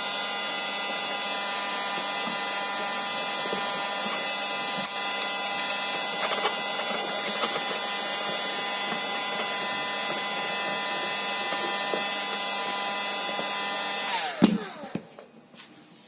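Electric power tool running steadily at a constant high speed, with a few light knocks against the work. About fourteen seconds in it is switched off and its pitch falls as the motor spins down.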